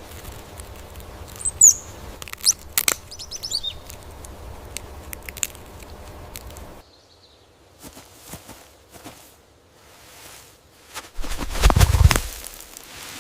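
Outdoor ambience with birds chirping: a few quick high calls in the first few seconds over a steady low background, which drops away suddenly about halfway through. Near the end comes the loudest sound, a burst of noise with a low rumble lasting about a second.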